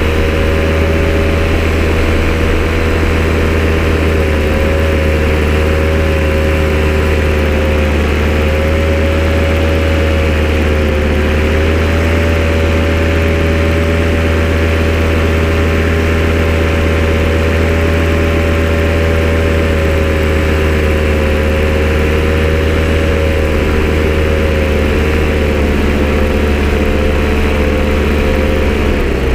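A loud engine idling steadily, with a deep constant drone and a slight wavering of its pitch.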